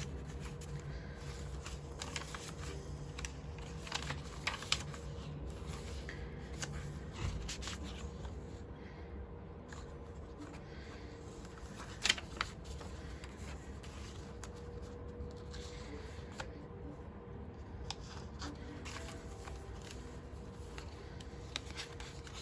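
Pages of a handmade paper journal being turned and handled, with soft irregular rustles and small clicks of paper and card, one sharper click about halfway through.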